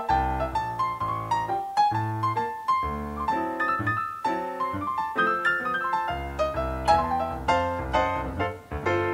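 Background piano music, a steady flow of struck notes over lower bass notes.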